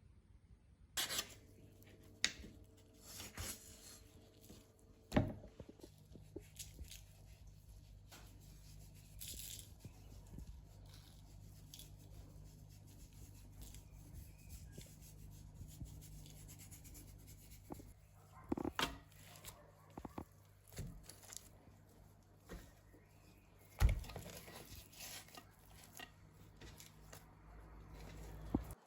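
Scattered handling noises: tearing, rubbing, clicks and a few sharper knocks, the loudest about five seconds in and again near twenty-four seconds, over a faint steady hum.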